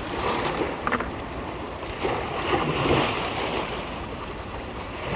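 Sea water washing against the shore with wind blowing on the microphone, a steady rushing noise; a short click about a second in.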